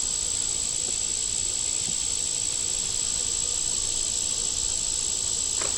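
Steady, unbroken high-pitched insect trill, such as crickets.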